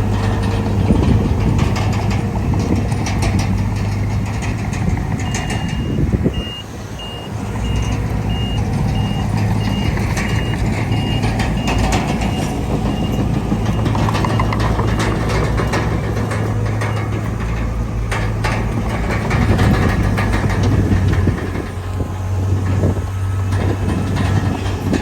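Heavy diesel earthmoving machinery running steadily with scattered clanks. About five seconds in, a reversing alarm starts beeping, evenly spaced, and keeps going for about ten seconds.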